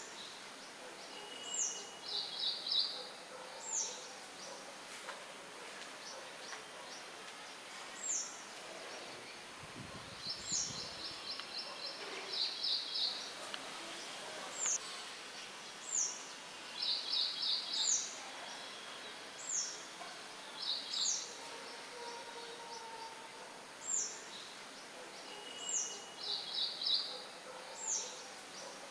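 Songbirds chirping over a soft, steady wind hiss: one bird repeats a short, high, falling chirp every second or two, while another gives quick runs of rapid repeated notes. A brief low rumble comes about ten seconds in.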